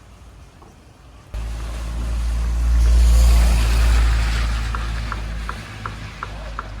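BMW E39 M5's 4.9-litre V8 running with a deep rumble that comes in suddenly about a second in, swells, then fades away, with a hiss over it at its loudest. A light regular ticking, about three a second, comes in near the end.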